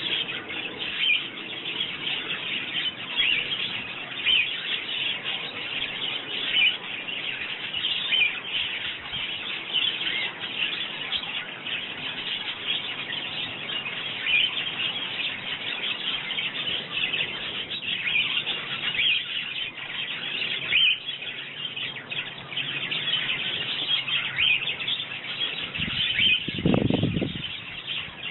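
Sparrows chirping continuously in a busy, overlapping chatter. Near the end there is a brief low rumble lasting about a second.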